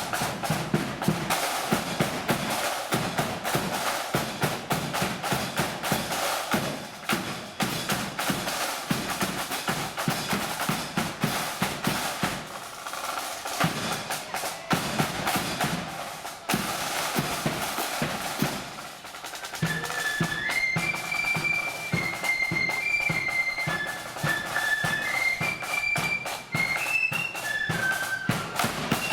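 Marching flute band: snare drums rolling and a bass drum beating. About twenty seconds in, the flutes come in with a high melody over the drums.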